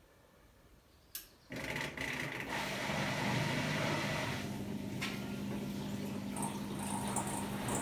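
Hotpoint-Ariston washer-dryer starting up: a click about a second in, then water starts rushing into the machine with a steady low hum underneath.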